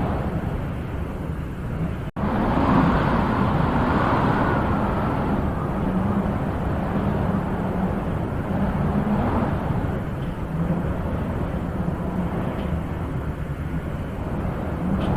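Wind blowing in a steady rush that swells and eases in gusts, with a momentary cut-out about two seconds in.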